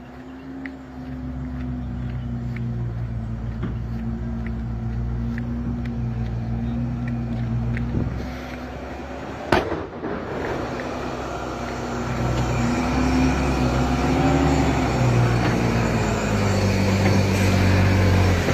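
Heavily loaded truck's diesel engine running under strain, its revs rising and falling and the sound growing louder. A single sharp crack comes about nine and a half seconds in.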